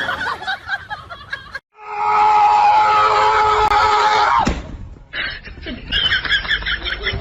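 A long, loud, steady cry lasting about two and a half seconds, like a scream, followed after a short break by a person laughing.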